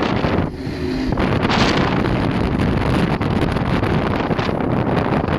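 Heavy wind buffeting the microphone on an open motorboat under way, over the rush of the boat and water, easing briefly about half a second in.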